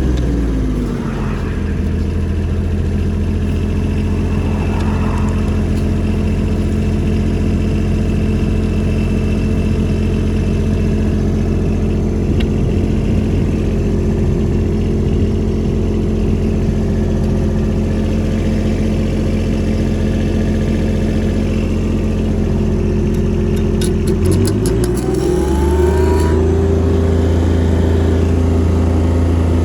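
Diesel engine of a Denyo BLW-280SSWII engine welder-generator running: it slows down from high speed within the first second or two, idles steadily for a long stretch, then speeds back up near the end and runs on at the higher speed.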